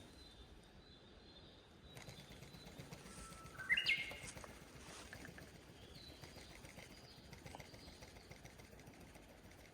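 A bird calling once, a short call stepping upward in pitch, about four seconds in, over a faint steady outdoor background.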